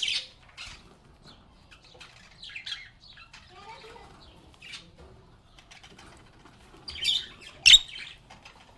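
Pet lovebirds chirping in short, scattered high notes, with a loud burst of calls about seven seconds in.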